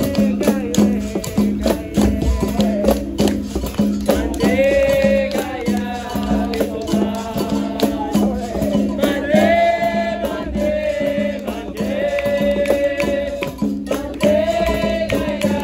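Capoeira roda music: a berimbau's steady twang with the rattle of its caxixi shaker and hand percussion in a continuous rhythm. Sung phrases come in from about four seconds in and recur several times.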